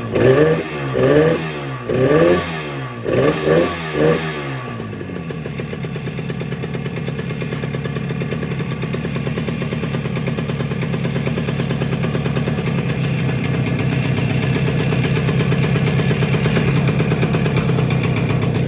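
Yamaha RD350 two-stroke twin engine blipped about six times in quick succession over the first four seconds, then settling into a steady idle.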